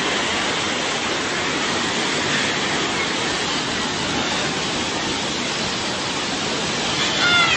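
Steady, even rushing noise of a violent storm, with no change in level. About seven seconds in, a few short falling high-pitched tones sound briefly.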